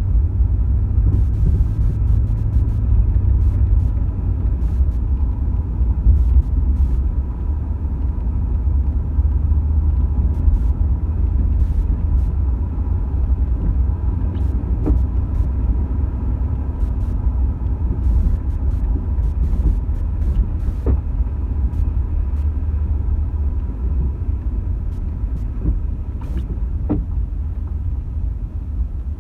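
Car driving on rain-wet roads, heard from inside: a steady low rumble of engine and tyres, with scattered sharp ticks throughout.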